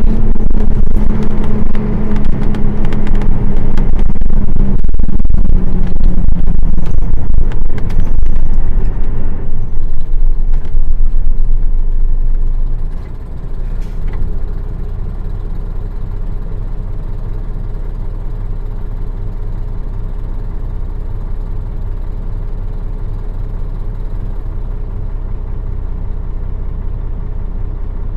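City bus with a Nissan Diesel PF6 diesel engine running under way, with many rattles and clicks over the engine noise. About 13 seconds in the sound falls away as the bus slows to a stop, and the engine settles to a steady idle.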